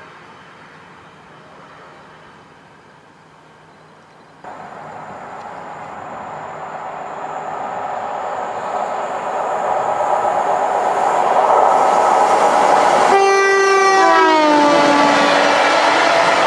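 Class 92 electric locomotive approaching at speed on a freight train, growing steadily louder. Near the end it sounds a brief multi-tone horn whose pitch drops as it passes, followed by the wagons rolling by.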